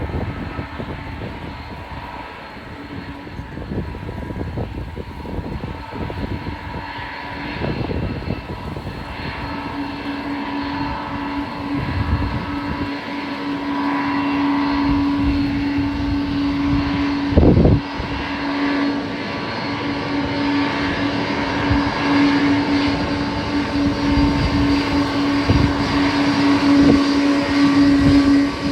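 Boeing 777-200 jet engines running steadily, a hum with a whine that comes in about a third of the way through and slowly grows louder. Strong wind buffets the microphone throughout, with one hard gust about two-thirds in.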